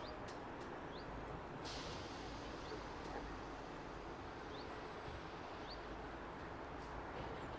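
Quiet outdoor ambience: a low steady background noise with a small bird's short rising chirps, five or six spread through. A brief hiss comes about two seconds in.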